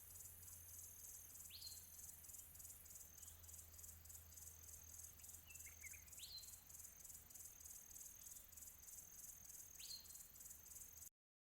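Faint, steady high chirring of insects in a fast pulsing trill, with a bird giving a short upward-sweeping call three times a few seconds apart and a brief flurry of notes in between. The sound cuts off abruptly near the end.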